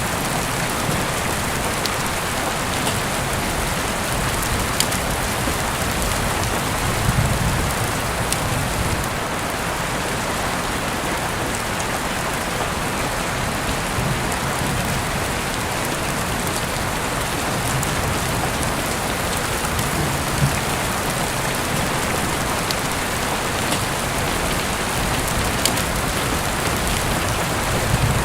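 Steady rain falling, an even dense hiss of drops, with scattered sharp ticks of single drops or crackles.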